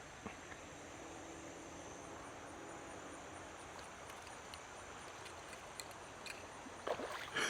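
Faint, steady rush of flowing creek water, with a few light ticks and a brief louder noise near the end.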